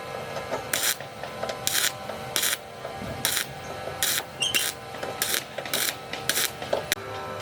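A hand tool rasping against a surface in short, regular back-and-forth strokes, about ten of them, one every half to three-quarters of a second.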